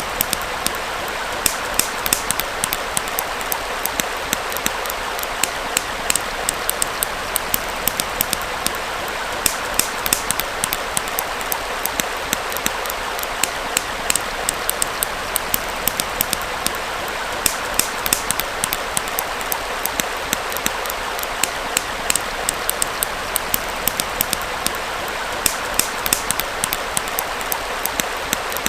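Campfire crackling and popping in frequent, irregular sharp snaps over the steady rush of a small flowing stream.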